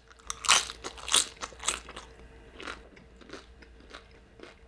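Close-up eating sounds: crisp food being bitten and chewed, three loud crunches in the first two seconds, then softer chewing crunches.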